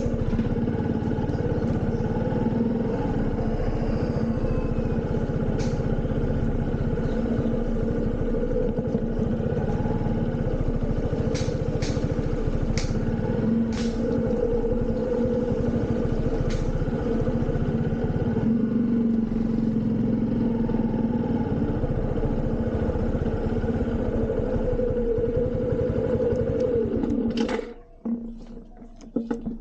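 Motorcycle engine running at a steady, unchanging pitch, with a few sharp clicks in the middle; near the end the note falls and the sound cuts out.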